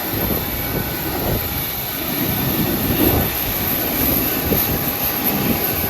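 Steady hum and rumble of a Boeing 737-800 airliner on the ground, with faint steady whining tones over the low rumble.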